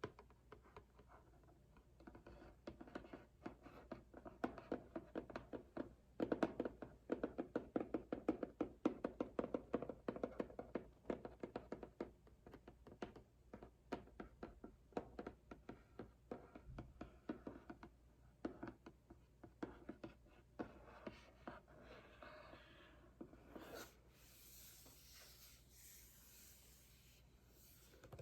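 Fingers and nails tapping quickly on a cardboard box, in a dense run of light taps, then rubbing and scratching across the cardboard over the last few seconds.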